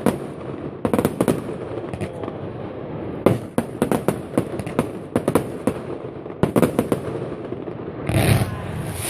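Aerial fireworks display: volleys of sharp bangs and crackling pops in quick clusters, with a short burst of hiss and crackle near the end.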